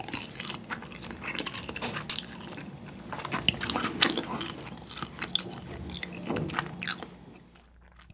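Close-miked chewing of soy-marinated raw salmon: irregular wet smacks and sticky clicks of the mouth working the firm, chewy flesh, dying away near the end.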